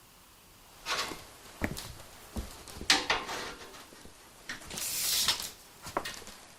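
A few irregular knocks and clunks of parts being handled and set down, with a short scraping noise about five seconds in.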